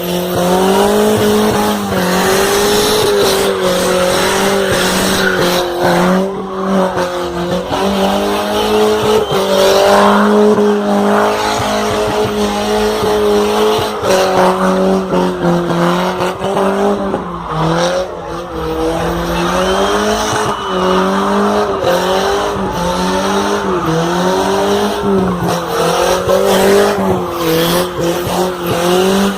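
Car doing a long burnout, its tyres squealing continuously with a wavering pitch over a steady engine drone.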